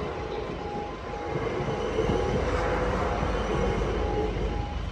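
A South Western Railway electric multiple unit passing over a level crossing, its rumble swelling about two seconds in and easing near the end. Through it, the crossing's warning alarm beeps in a quick, even repeat.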